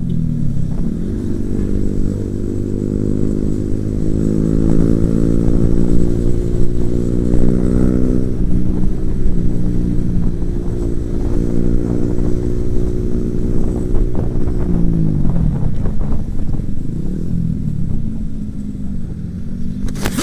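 Motorcycle engine pulling under acceleration, its pitch climbing steadily for about eight seconds and then holding. About fifteen seconds in it drops as the throttle is rolled off, then rises and falls a little.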